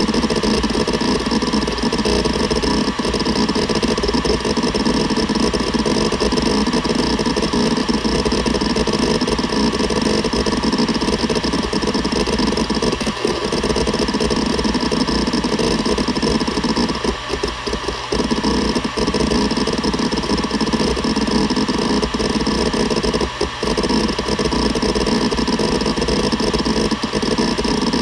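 Seagate Barracuda ES.2 ST31000340NS 7200 rpm hard drive spinning, with a steady hum and a dense, rapid chatter of head seeks. The chatter breaks off briefly a few times past the middle.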